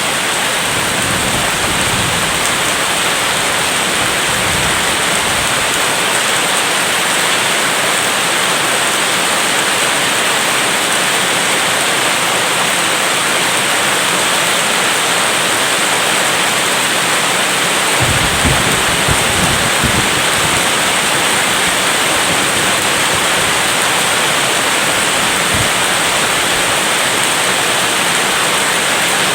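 Steady heavy rain, with a low rumble of distant thunder lasting about two seconds two-thirds of the way through and fainter rumbles near the start.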